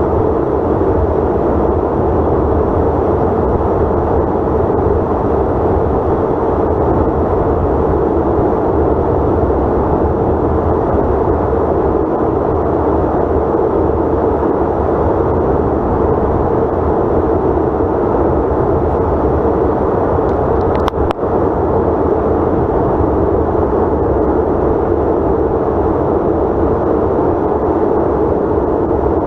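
Steady drone of a Delta CRJ900 regional jet in flight, its rear-mounted turbofans and the airflow heard as an even, unbroken rumble with a strong low hum. A brief click just before the 21-second mark interrupts it for an instant.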